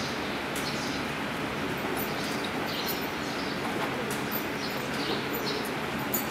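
Small birds chirping: short, high chirps repeating every half second or so over a steady background hiss.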